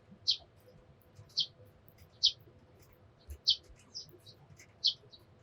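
Eurasian tree sparrows chirping: short, sharp single chirps about once a second, with fainter chirps in between.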